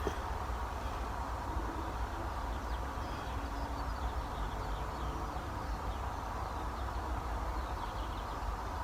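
Outdoor background: a steady low rumble with faint birds chirping now and then.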